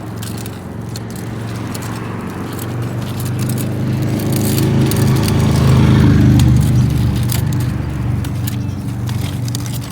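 A car passing on the road: its engine and tyre noise swell to a peak about six seconds in, then fade as it moves away.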